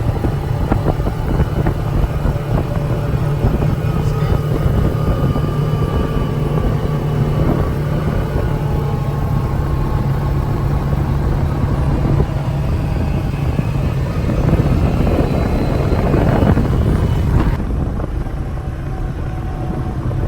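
Vehicle driving along a track, a steady engine and road rumble, heard from inside the cab.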